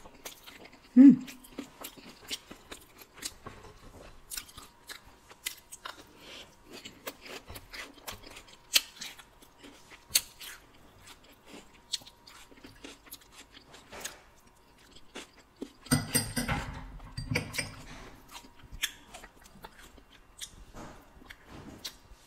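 Close-miked mouth sounds of eating soft dragon fruit off a spoon: wet chewing, smacking and small clicks throughout. A brief louder low sound comes about a second in, and a denser, louder stretch of clattering and scraping about three-quarters of the way through.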